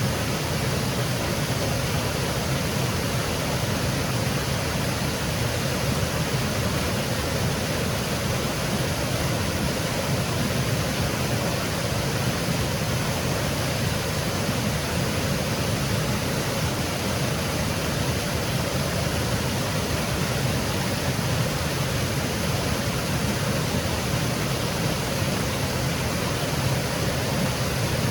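Small woodland waterfall splashing steadily over rocks, an even rushing noise.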